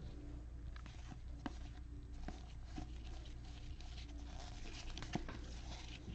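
Trading cards being handled: faint rustling and light clicks as cards are slid and flipped through, with a few sharper ticks, over a low steady hum.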